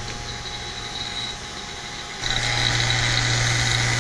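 A machine running steadily, with a low hum and a high whine. It gets noticeably louder about halfway through.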